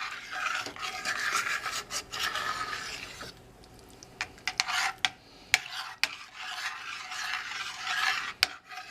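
A utensil stirring and scraping around a pot of thickening gravy, in two spells of rasping strokes with a few sharp clicks of the utensil against the pot between them.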